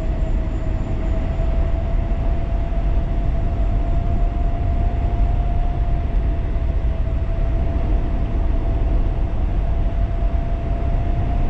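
A 1500-watt DIY e-bike at riding speed: wind rushes over the microphone while the electric motor gives a steady, even whine.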